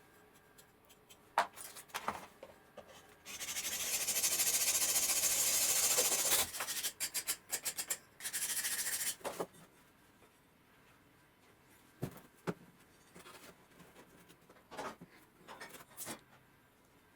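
Aerosol spray can spraying grey primer: one long hiss of about three seconds, a few short sputtering bursts, then a second short hiss. Scattered light clicks and knocks of handling come before and after.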